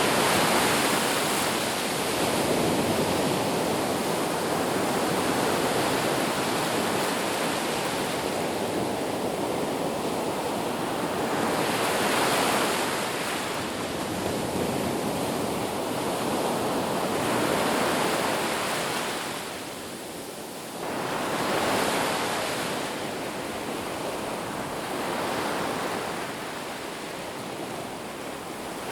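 Ocean waves breaking on a beach: a continuous wash of surf that swells and eases every few seconds, with a short lull about two-thirds of the way through.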